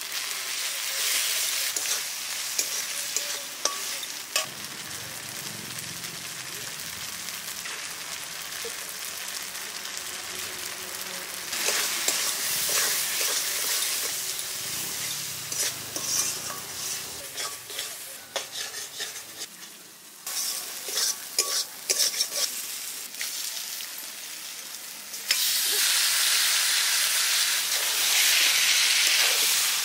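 Spice paste frying and sizzling in hot oil in a kadai, with a spatula stirring and scraping against the pan. In the last few seconds, with raw duck pieces in the pan, the sizzle turns louder and steadier.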